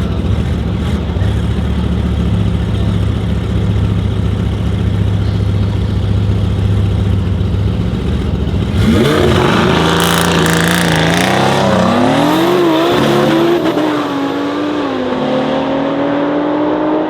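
Twin-turbo Lamborghini Huracan Performante's V10 holding a steady, deep rumble at the line, then about nine seconds in launching hard and accelerating, its pitch climbing and dropping back at each gear change.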